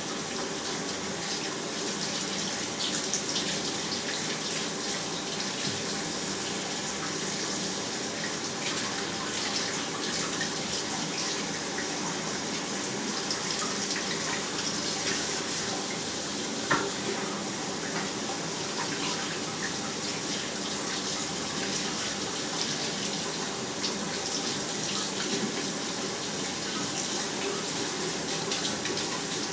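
Steady rushing noise with a faint hum running through it, broken by a few light clicks and one sharper knock about 17 seconds in.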